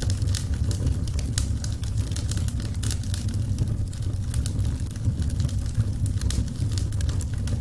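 Wood fire burning, with many sharp crackles and pops over a steady low rumble of flames.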